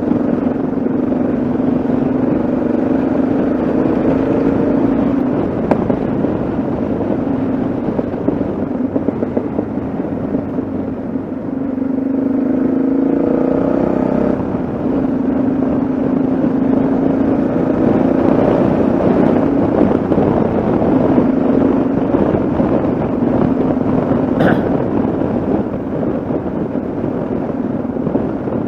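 Yamaha XT660Z Ténéré's single-cylinder engine running steadily on the move. About halfway through, the engine note drops briefly, then climbs again before settling back to a steady run.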